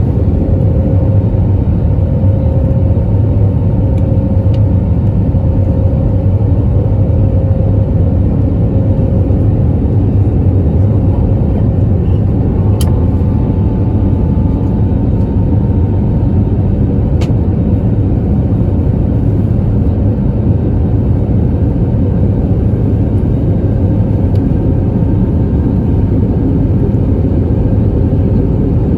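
Airbus A320neo cabin noise heard from inside the cabin: a loud, steady rumble of the jet engines and rushing air during the climb. Two sharp clicks come partway through.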